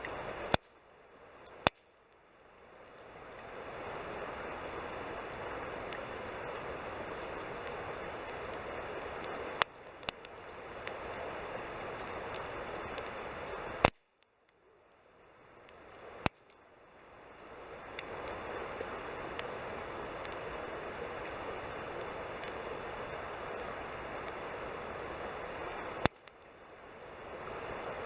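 Campfire burning with a steady hiss and crackle, broken by several sharp loud clicks; after some of them the fire sound drops away and fades back in over a second or two.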